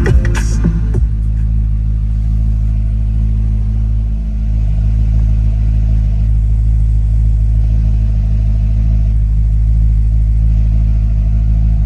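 2013 Chevrolet Corvette Grand Sport's 6.2-litre LS3 V8 idling steadily, heard from inside the cabin.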